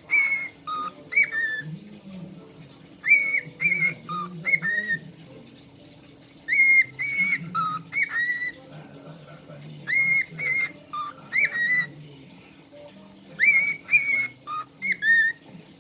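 Cockatiel whistling a short learned tune, repeating the same phrase of clear, gliding notes about every three and a half seconds.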